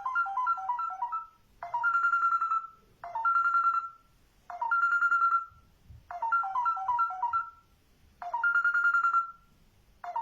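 A pet talking bird imitating a mobile phone ringtone: short electronic-sounding warbling phrases, repeated about every one and a half seconds, some a quick run of stepped notes and some a single held tone.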